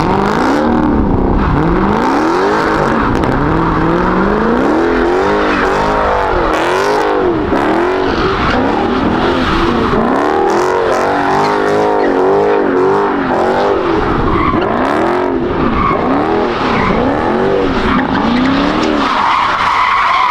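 Dodge Charger 392's 6.4-litre HEMI V8 revving up and down over and over, about once a second, with the tyres squealing as they spin and slide.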